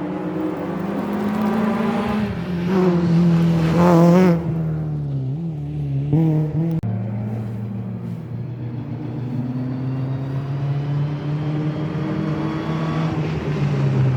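Historic rally car engine at full throttle on a stage. The note climbs to its loudest about four seconds in, then drops off with a couple of quick throttle blips. A few seconds later it pulls away again on a lower note that slowly rises.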